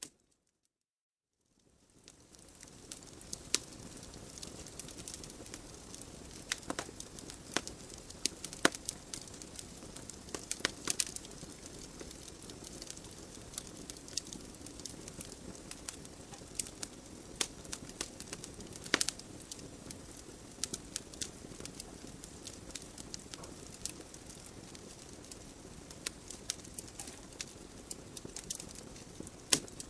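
Logs burning in a wood fireplace: irregular sharp crackles and pops over a steady low hiss of the flames. The sound comes in after about two seconds of silence.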